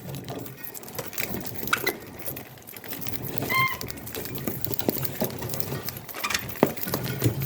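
Budgies making small scratching and clicking sounds, with one short chirp about three and a half seconds in.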